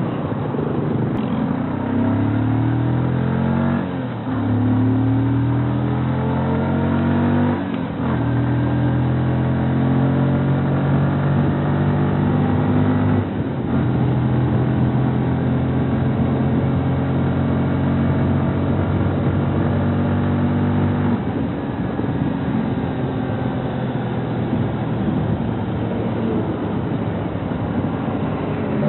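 Bajaj NS125 FI motorcycle's single-cylinder engine pulling through the gears. The pitch climbs and then drops at each of three upshifts, holds steady at cruise, and falls away as the throttle eases about two-thirds of the way through.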